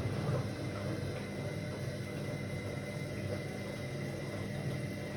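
Whirlpool AWOC 8283 washing machine running mid-cycle: a steady motor hum with a faint high whine over a wash of noise.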